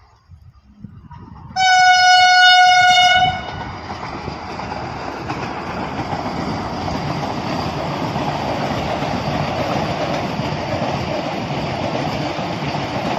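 A train horn blasts once, a steady single-pitched tone lasting just under two seconds, about a second and a half in. It is followed by the steady rush and rattle of a train running past at speed on the rails.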